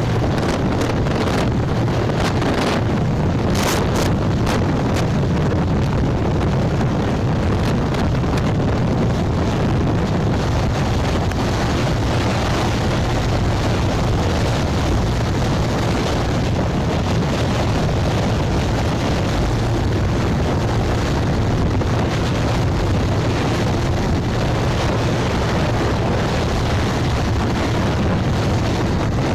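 Wind rushing over the microphone of a moving motorcycle, with the bike's engine and road noise underneath, steady throughout.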